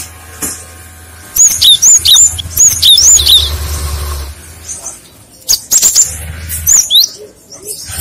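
Cinereous tit (gelatik batu) singing: quick series of sharp, high two-note phrases, each a high arched note followed by a lower one, repeated about twice a second. The song pauses briefly past the middle, then resumes.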